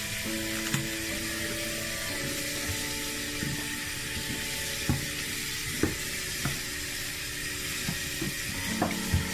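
A bristle brush scrubbing a soapy fabric cap: a steady scratchy hiss with small scattered knocks. It plays under soft background music with long held notes.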